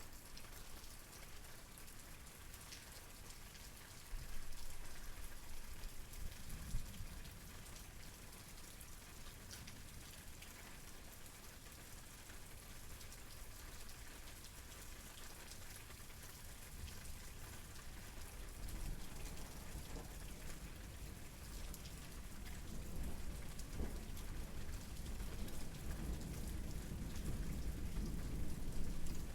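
Steady rain falling and pattering on surfaces. A low rumble of thunder builds and grows louder over the last ten seconds or so.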